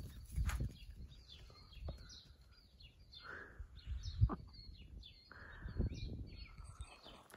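Small birds chirping and twittering in the background, with a few low thumps and rustles in between.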